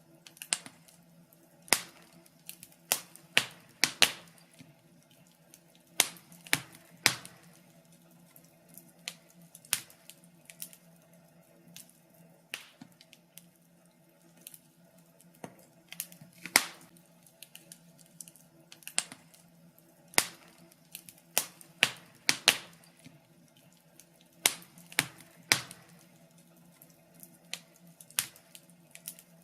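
Wood fire crackling: irregular sharp pops and snaps, sometimes several close together, sometimes a second or two apart.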